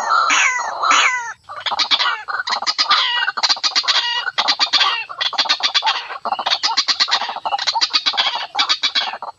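White-breasted waterhen (ruak-ruak) calling: a few falling notes at first, then after a brief break, fast trains of harsh clucking notes in short bursts, one after another.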